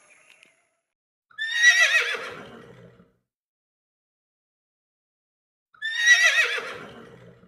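An animal call heard twice, the same call each time: a loud, high, quavering cry that falls away into a low tail, each lasting about a second and a half.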